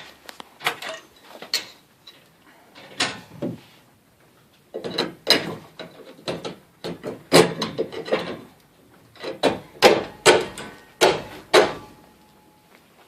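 Pry bar worked against garage door hardware: irregular metal knocks and clatter, coming in clusters of several strikes and getting busier after the first few seconds.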